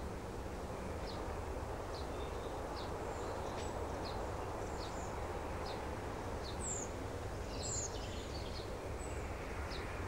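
Outdoor ambience: a steady background hiss with a bird chirping repeatedly, short high chirps about every second, and a couple of higher gliding calls about two-thirds of the way through.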